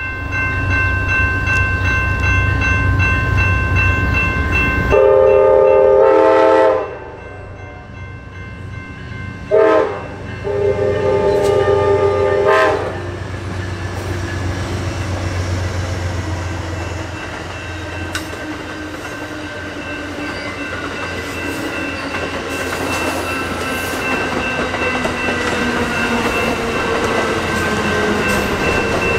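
Amtrak Coast Starlight passenger train arriving: the diesel locomotives rumble in, and the horn sounds one long blast about five seconds in, then a short blast and another long one. After that, the double-deck passenger cars roll past with the steady noise of wheels on rail.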